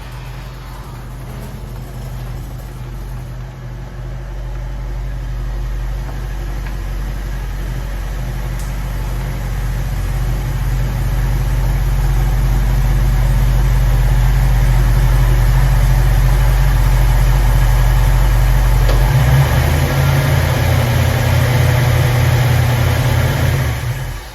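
Car engine running steadily and growing louder. About three-quarters of the way through, its low note changes to an even pulsing.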